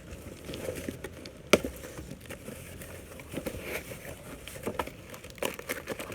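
Shipping box being cut open from the bottom with hand pruners: scattered snips and clicks with crinkling of packaging, one sharp click about a second and a half in.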